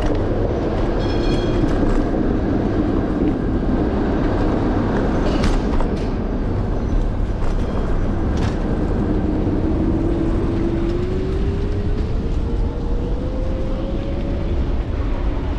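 Ride noise from an electric scooter on city pavement: a steady low rumble of wheels and wind on the handlebar-mounted microphone. A motor whine rises slowly in pitch over the last several seconds as the scooter speeds up.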